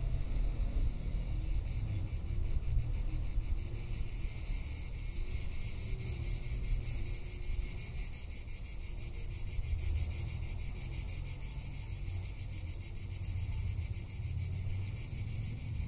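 Cicadas singing: a steady, rapidly pulsing high buzz that swells about four seconds in, with wind rumbling on the microphone underneath.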